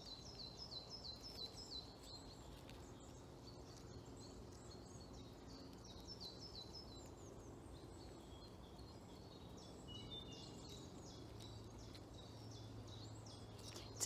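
Faint birdsong from small songbirds: bouts of high, rapid, repeated down-slurred notes, strongest at the start and again near the end.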